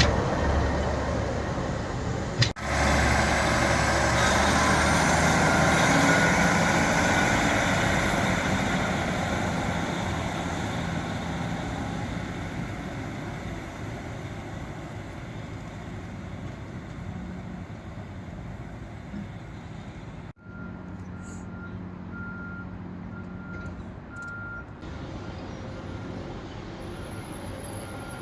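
Diesel train running and fading away as it moves off. After a cut, quieter background with a run of short, high beeps.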